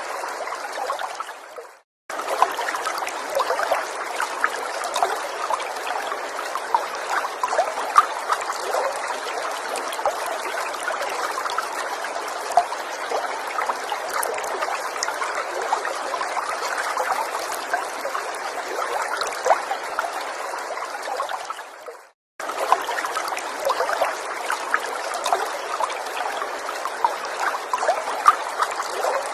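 A small stream trickling and babbling over stones, with many small splashes. Twice, about two seconds in and again near 22 seconds, the water sound fades out to brief silence and then starts again abruptly.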